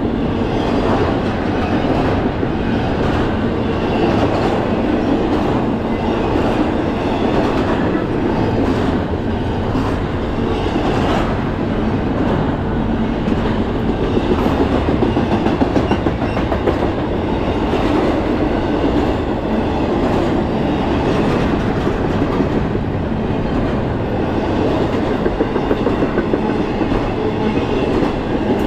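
Double-stack intermodal freight train rolling past close by: a steady noise from the passing cars, with the wheels clicking over the rail joints again and again.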